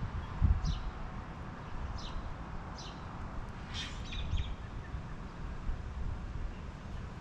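Short, sharp songbird chip notes: single chips a second or so apart, then a quick cluster about four seconds in. Under them is a low rumble of wind on the microphone.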